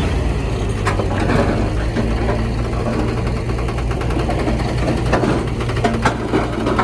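Heavy diesel engine of earthmoving machinery running steadily, with a few sharp metallic knocks over it.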